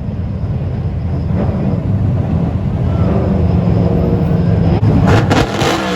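Drift cars' engines running loud and revving, with a louder rush of noise about five seconds in.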